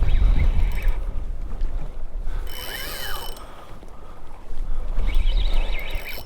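Fishing reel working against a hooked fish: winding and ratcheting, with about a second of buzzing drag near the middle as the fish pulls line. Wind rumbles on the microphone.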